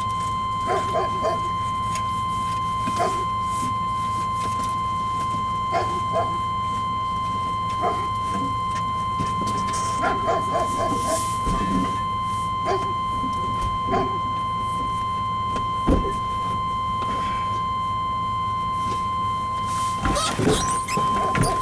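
Chevrolet Tahoe engine idling as a low steady hum, with a steady high-pitched tone over it and short sounds every couple of seconds.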